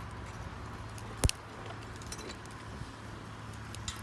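Wood campfire crackling with scattered sharp pops, and one much louder crack about a second in.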